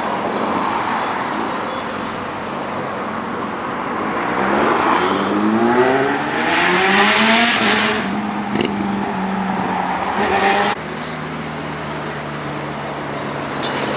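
Sport motorcycle engine accelerating, its note rising in pitch through the gears over a few seconds, over steady traffic noise; the sound changes abruptly to a steady lower engine drone about three-quarters of the way through.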